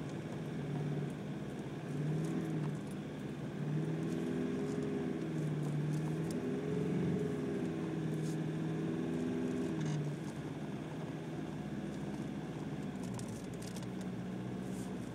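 Car engine heard from inside the cabin while driving, its revs rising and falling several times before settling to a steadier note, over a light hiss of tyres and road noise.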